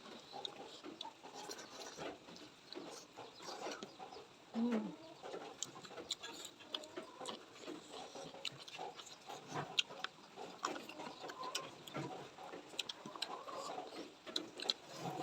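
Close-miked eating sounds: a person chewing food, with many irregular small sharp clicks, smacks and crunches, and a short closed-mouth hum about five seconds in.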